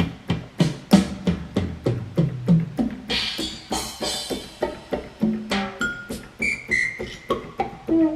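Yamaha PSR-350 keyboard's drum-kit voice, its drum and percussion samples played one key after another at about three a second. Low drums and toms come first, then cymbals about three seconds in, then short pitched percussion hits.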